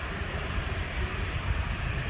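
Airliner jet engine noise mixed with strong wind buffeting the microphone, a steady rumbling noise with an uneven low rumble.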